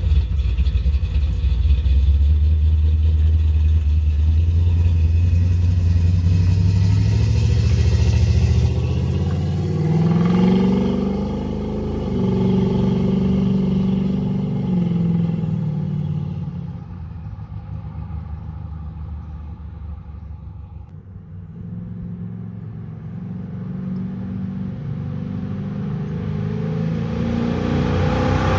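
Chevy 350 small-block V8 with a Comp Magnum 292 cam, long-tube headers and Flowmaster mufflers, pulling under acceleration while driving. The engine note climbs in pitch for the first several seconds, climbs again after a change around ten seconds in, eases off and quietens in the middle, then builds again near the end.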